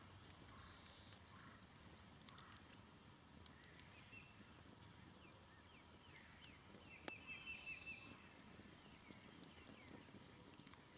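Faint ticking and crackling of a smoldering campfire, with scattered sharp pops. Small birds chirp around it, and one gives a quick run of about six repeated notes about seven seconds in.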